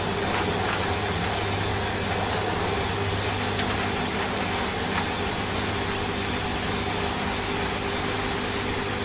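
Washing machine running with a steady low hum, mixed with the even hiss of falling rain.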